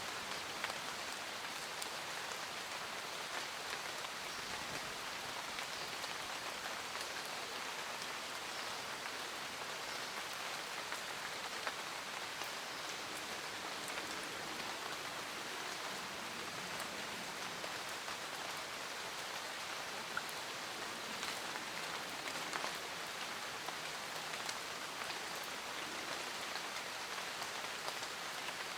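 Steady rain falling, an even hiss with many small droplet ticks throughout.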